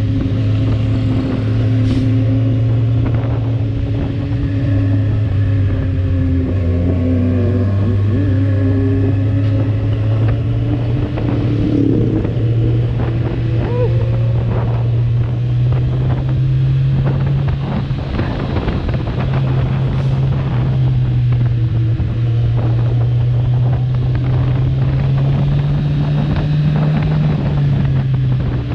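Kawasaki Z1000R's inline-four engine running through its stock exhaust at a steady cruise, its pitch dipping briefly and rising a little near the end, with wind rushing over the microphone.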